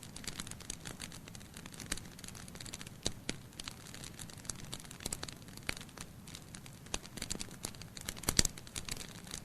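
Wood fire burning in a fireplace: logs crackling and popping at irregular intervals over a low steady rush of flame, with a brief cluster of louder pops a little after eight seconds in.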